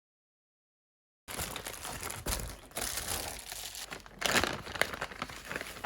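Packaging being crinkled and torn open as an aftermarket exhaust kit is unwrapped, starting about a second in with irregular crackles and rustling.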